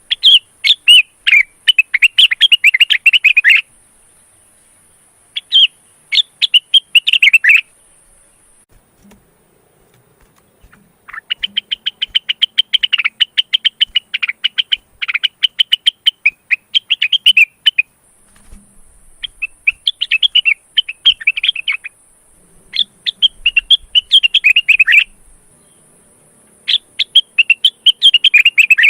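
Male cucak wilis (rengganis) leafbird in breeding condition singing in loud phrases of rapid, varied chirps, with short pauses between bouts.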